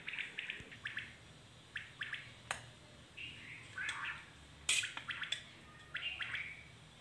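Small birds chirping, short high calls scattered through with one gliding call, plus a couple of sharp clicks: one about two and a half seconds in and a louder one nearly five seconds in.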